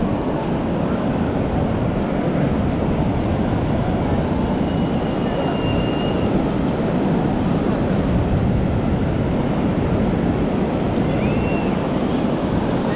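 Steady wash of ocean surf with wind buffeting the microphone, an even rumbling noise with no breaks.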